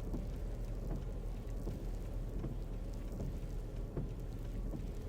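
Car tires spinning and hissing through snow over a steady low engine and road rumble, with faint scattered clicks.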